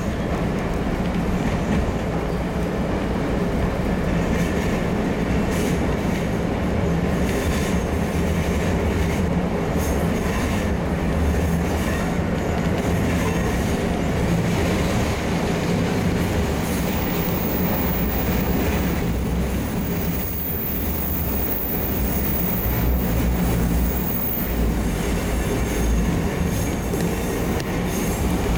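A Kotoden electric commuter train running along the track, heard from inside the carriage: a steady rumble of wheels on rails.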